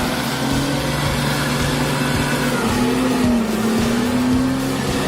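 A truck engine running steadily under load.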